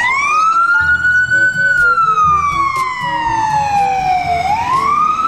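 Ambulance siren wailing: a slow rise in pitch, a long slow fall, then rising again near the end.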